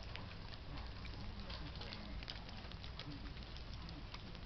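Steady rain from a tropical storm, with many close drops pattering and ticking over a continuous hiss and a low rumble.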